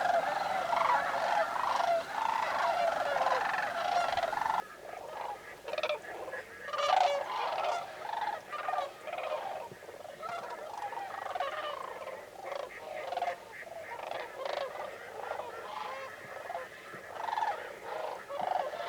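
A large flock of sandhill cranes calling, many rolling, bugling calls overlapping into a continuous chorus. The chorus is loud and dense for the first few seconds, then drops to a quieter, sparser one.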